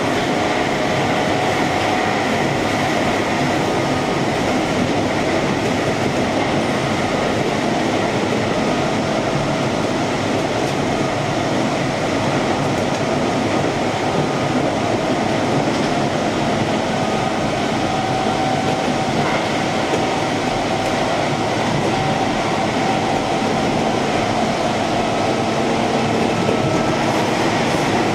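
Keihan electric commuter train running along the line, heard from inside the front car: a steady rumble of wheels on rail, with a few faint steady tones over it.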